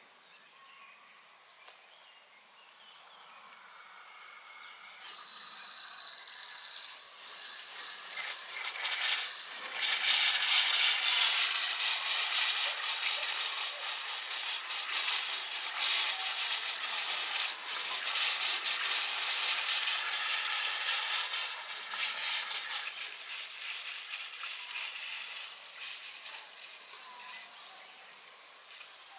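Water spraying hard from a shower head on a borehole-fed line. The hiss builds up, runs strong for about ten seconds, then tapers off. A faint insect trill sounds in the first seconds.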